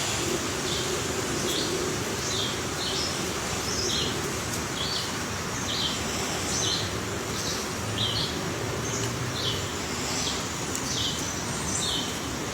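A bird calling over and over in short, high chirps, roughly two a second, against a steady background hiss.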